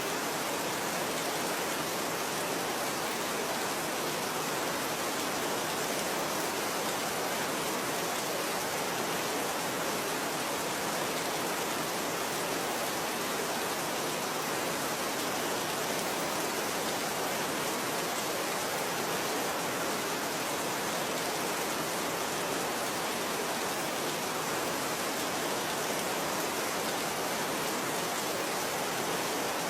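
Steady rain falling: an even, unchanging hiss with no separate drops standing out.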